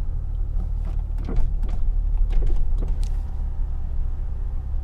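Infiniti G35's 3.5-litre VQ35DE V6 through a Z1 touring exhaust, a steady low drone while cruising at an even speed, with a few light clicks in the first few seconds.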